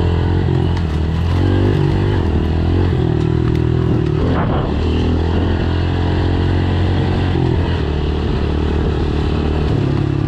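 Honda four-stroke single-cylinder dirt bike engine being ridden, revs rising and falling with the throttle, with a brief drop in revs about four and a half seconds in.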